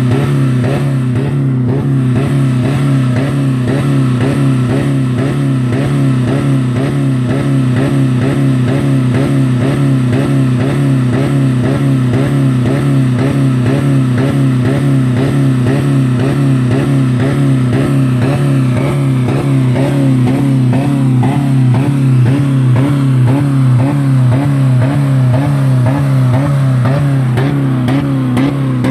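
2000 Dodge Neon's 2.0-litre four-cylinder engine held at about 4000 rpm, running at a steady pitch with a regular wavering in its note. It has no oil or coolant left and is being run until it fails.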